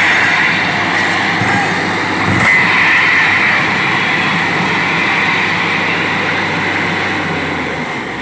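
Borewell drilling rig running: a loud, steady mechanical noise.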